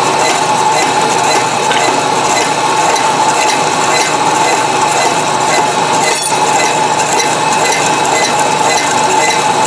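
Milling machine cutting a steel wood-chipper blade: a steady metallic cutting and gear noise with a light regular clink about twice a second.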